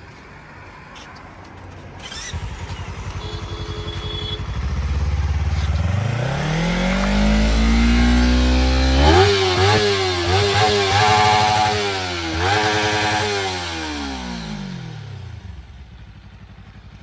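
A motorcycle doing a fast fly-by. Its engine note climbs as it approaches, revs up and down with quick throttle changes as it passes at its loudest, then drops in pitch and fades as it rides away.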